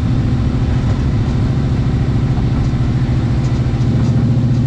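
Car engine and exhaust running steadily during a drive, a low even drone. An exhaust leak at the driver's side header is still present.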